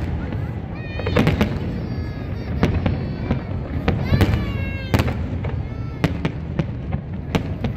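Aerial fireworks shells bursting in an irregular series of sharp bangs and crackles, several close together at times, with some higher wavering pitched sounds mixed in.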